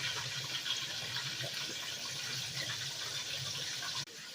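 Chicken frying in hot oil: a steady sizzle with a low hum under it, which cuts off suddenly near the end.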